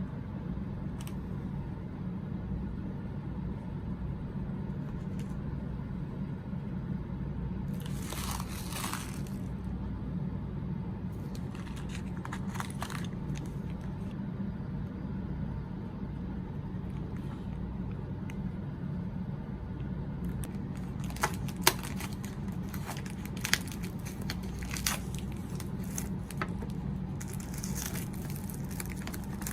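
Snack packaging being handled: short bursts of wrapper crinkling and tearing, then a run of sharp clicks and taps, and more crinkling near the end, over a steady low hum.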